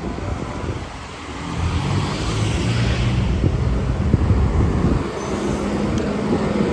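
Road traffic passing: a motor vehicle's engine hum and tyre rush swelling about a second in and holding steady.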